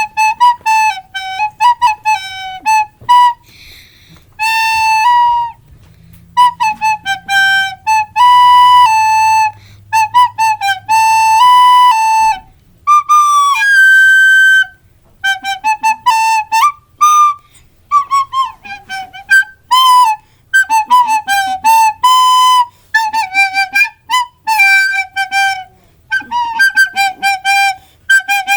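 A recorder played as a tune of many short notes with brief gaps between them, now and then a longer held note, and one higher note held about halfway through.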